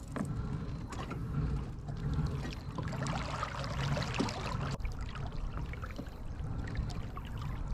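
Water trickling and splashing around a kayak's hull as it moves through the water.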